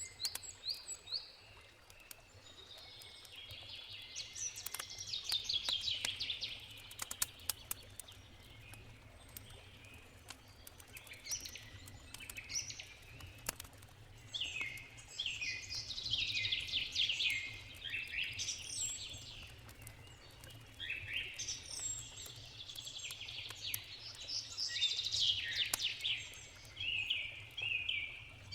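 Songbirds singing in repeated phrases of fast, rapid notes, one burst after another. Scattered sharp crackles of a campfire sound under them, thickest a few seconds in, over a steady low rush of river water.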